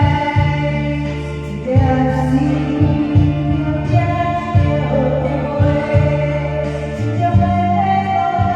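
Singing over a karaoke backing track, with sustained bass notes under the melody.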